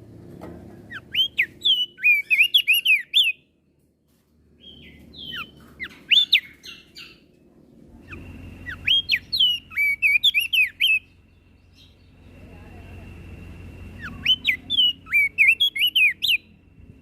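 Opior jambul (crested heleia) singing: four bursts of fast, sharply gliding twittering notes, each lasting two to three seconds with short pauses between. A faint steady high tone runs behind the later phrases.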